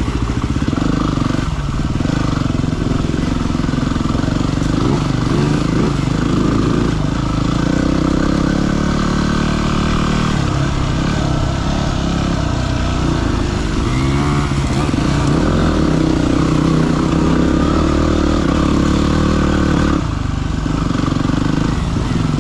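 Yamaha WR250R's single-cylinder four-stroke engine running as the bike is ridden along a dirt trail, its pitch rising and falling with the throttle, easing briefly near the end.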